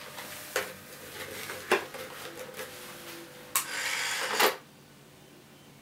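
Hard plastic clicks and knocks as a 3D-printed Iron Man helmet is handled and put on, then a louder rushing whir lasting about a second, about three and a half seconds in.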